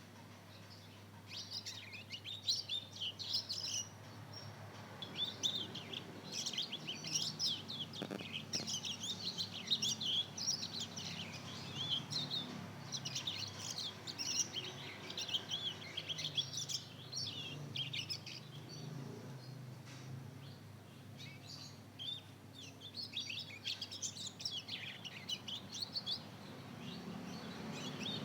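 Young mozken, a hybrid of a Mozambique canary (yellow-fronted canary) and a domestic canary about two months old, twittering its early practice song: long runs of quick high chirps and warbles with short pauses. This is a juvenile still learning to sing.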